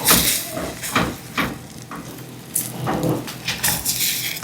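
Eggs and hot dog pieces sizzling in a clay cazuela while a utensil stirs them, scraping and knocking against the pot several times.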